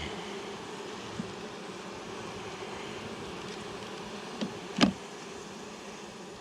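Honeybees buzzing in a steady hum around an opened hive, with two short knocks close together about four and a half seconds in, the second one loud.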